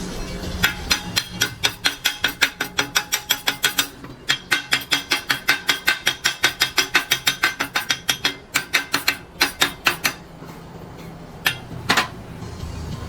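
Rapid hammer blows, about five a second, in two long runs with a short break near four seconds, thinning out near ten seconds; two more lone strikes near the end.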